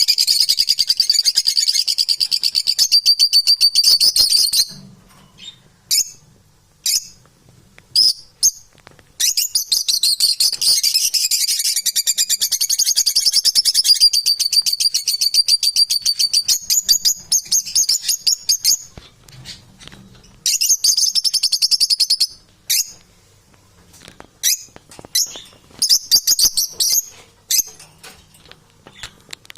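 Pet parrots chattering and chirping in rapid, high warbling runs. The runs come in bouts of a few seconds, with short single chirps and quieter gaps between them.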